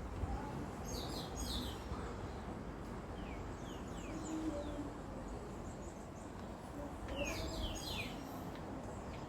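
Small birds chirping in two flurries of quick, falling high notes, one a second in and another near the end, over a steady low rushing background.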